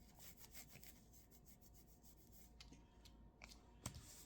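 Faint scratching of a pen writing on paper, with a few soft small clicks, over near-silent room tone.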